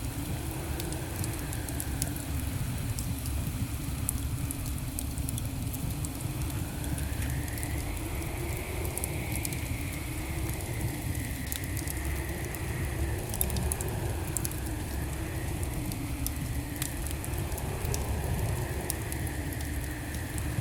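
Wood fire burning in a fireplace: a steady low rumble with frequent small crackles and pops, and a faint hum and whistle that waver slowly in pitch.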